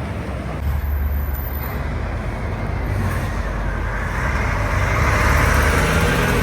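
Highway traffic passing: a heavy vehicle's engine runs low at first, then the engine and tyre noise of another approaching vehicle builds, rising to its loudest near the end.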